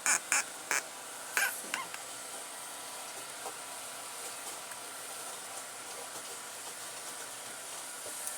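Oil hissing steadily in a hot cooking pot, with several sharp pops and spatters in the first two seconds.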